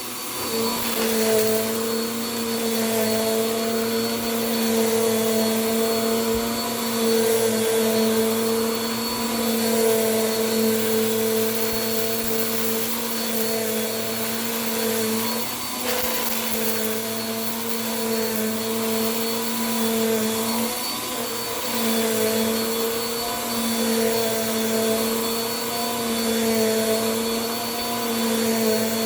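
Bissell PowerForce Compact upright vacuum running steadily: a motor hum with a high whine over airy suction hiss. Its pitch dips briefly about halfway through and again a few seconds later, then recovers.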